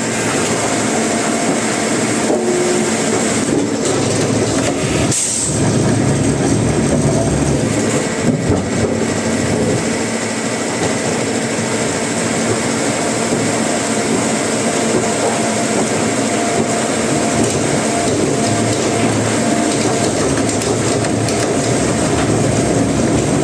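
Heavy wood-processing machinery running steadily and loudly, a dense mechanical noise with a constant hum.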